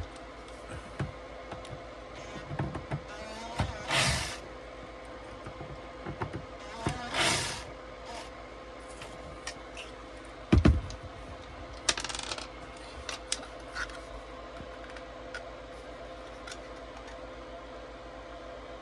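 Small hard parts being handled and fitted together: scattered clicks, taps and scrapes, with a heavier knock about ten and a half seconds in. A steady hum runs underneath.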